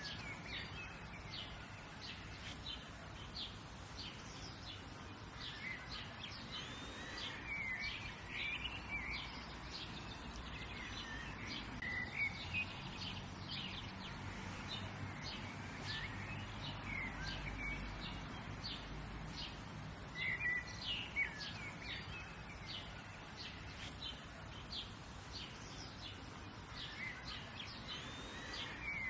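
Several birds singing and chirping, with many short calls and sweeping phrases throughout, over faint steady background noise.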